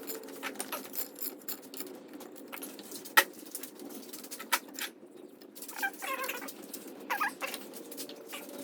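Scattered light clicks and taps of tools and bicycle parts being handled, with a sharper knock about three seconds in and a few brief squeaky tones near the end.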